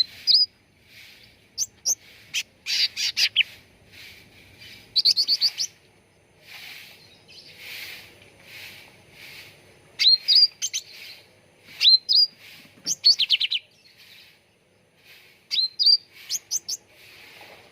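Cucak ranting calling: sharp upward-flicking chirps and quick runs of high notes that recur every couple of seconds, with softer chattering calls in between.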